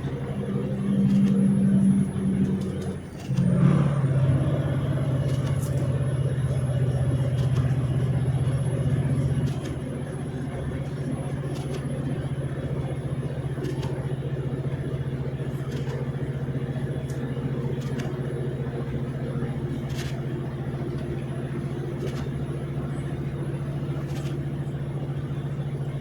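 Vehicle engine running steadily. About three seconds in there is a brief dip, and the engine note settles at a lower pitch.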